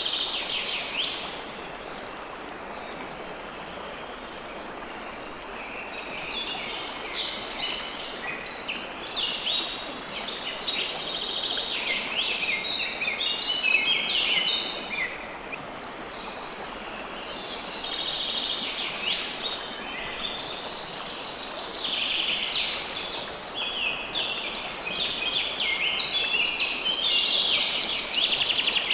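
River water flowing steadily, with small birds chirping over it in bouts of quick, repeated high notes. The birdsong comes and goes, with a quieter stretch of water alone early on, then several bouts through the rest. The birdsong is the loudest sound.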